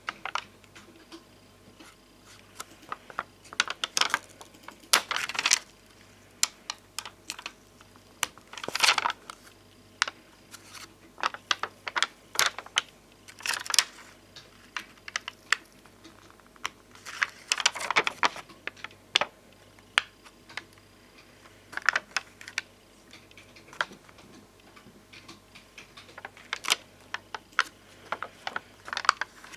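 Bonbon drop and ohajiki stickers, glossy domed resin-coated stickers, being handled close to the microphone. Fingers or nails make irregular light clicks and taps on them, and a few longer rustling strokes last about a second each.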